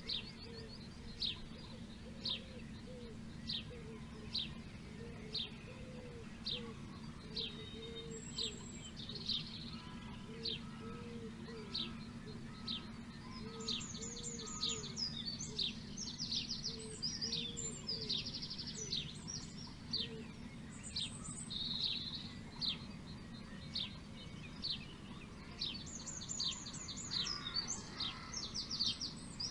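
Birds singing and calling. A short sharp chirp repeats about once a second, other birds add fast trilling song in the second half, and a low call repeats through the first two thirds, over a steady low background hum.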